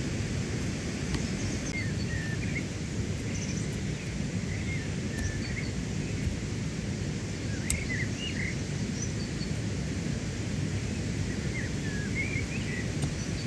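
Steady low outdoor rumble, with small birds chirping in short calls on and off throughout.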